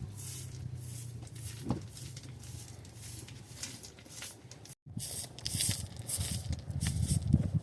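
Water splashing and swishing in irregular strokes as blankets are washed by hand in spring water, with a brief break just under two-thirds of the way in and busier, louder splashing after it.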